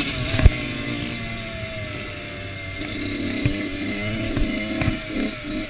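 Kawasaki KX85 two-stroke motocross engine running at lower revs after a rev, with a few sharp knocks: two near the start and more later.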